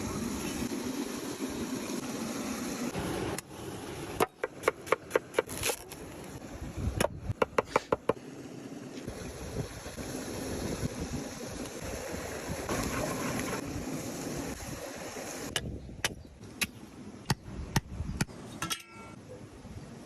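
Knife chopping on a cutting board in short runs of quick, sharp strokes, about five a second, over steady outdoor wind noise.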